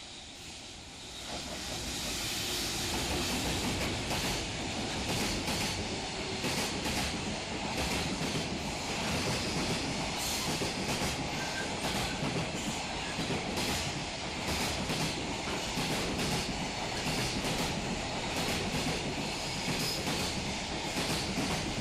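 Container freight train passing close by. It swells in over the first two seconds, then runs steadily as the wagons roll past, their wheels clacking over the rail joints.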